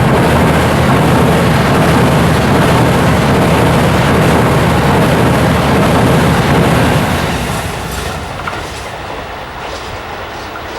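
A JR East Series E353 electric limited express train passing close by. The loud passing noise drops away about seven seconds in as the train moves off.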